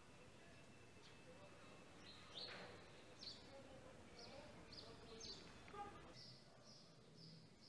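Faint outdoor ambience with a small bird chirping repeatedly: short high chirps start about two seconds in and come roughly every half second.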